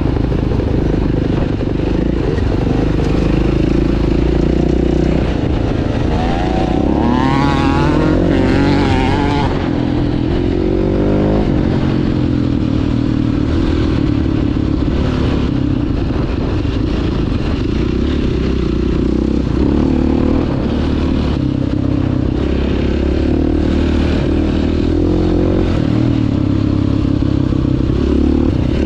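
Dirt bike engine running under load on a trail, the revs rising and falling with the throttle, with a run of climbing revs about a third of the way in. Clatter and scraping from the ride run underneath.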